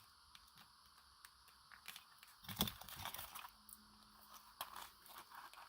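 Faint rustling and small clicks of paper and craft materials being handled, starting about halfway through after a quiet stretch.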